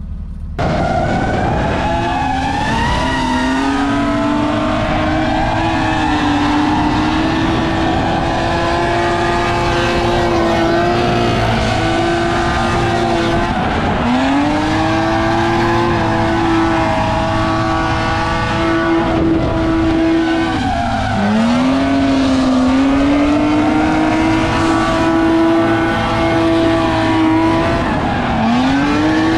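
BMW E36 drift car engine held at high revs through a drift with tires squealing. The engine pitch stays mostly level, briefly stuttering at times, and three times it drops sharply and climbs straight back up.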